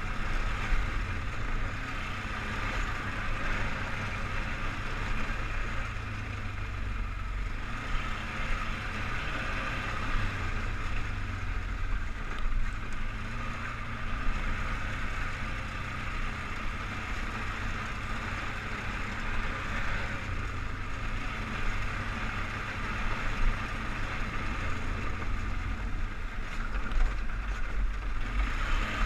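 Polaris Sportsman 500 HO 6x6 ATV's single-cylinder four-stroke engine running steadily under way, a low rumble with a band of mechanical hiss over it that swells and eases every few seconds.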